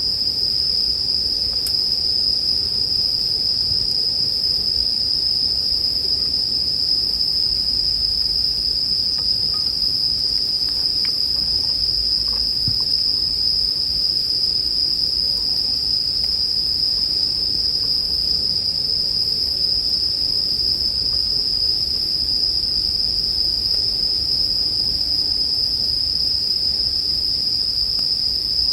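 Japanese bell crickets (suzumushi) chirping in a continuous high ring, over a campfire's low rumble with a few faint crackles.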